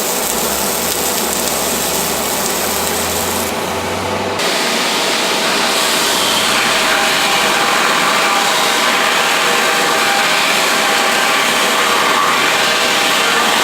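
MIG welding arc from a PowerWave S350 power source laying wire down, a steady noise. It thins briefly about four seconds in, then comes back a little louder.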